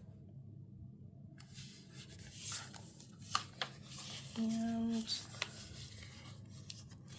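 Paper stickers being handled, peeled and pressed onto a journal page: soft paper rustling and a few light clicks, over a steady low hum.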